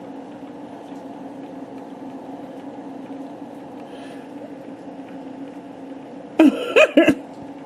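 A steady low hum, then a brief, loud burst of a person's voice with sliding pitch about six and a half seconds in.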